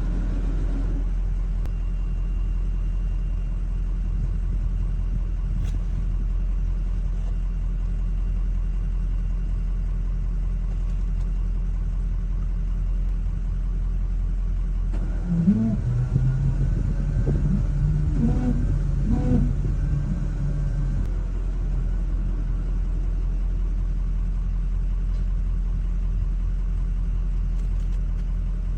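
Vehicle engine running with a steady low rumble, its pitch rising and falling for a few seconds about halfway through as it is revved.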